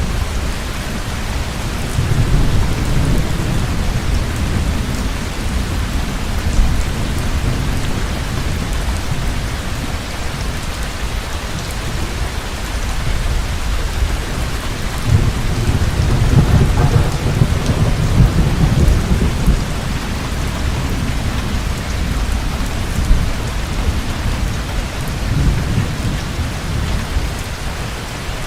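Heavy rain falling steadily, with low rolls of thunder: one about two seconds in, a longer, louder one through the middle, and a weaker one near the end.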